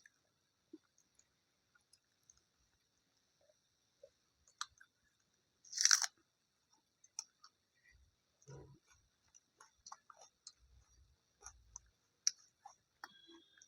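A person eating close to the microphone: soft chewing and small wet clicks, with one louder crackly crunch about six seconds in.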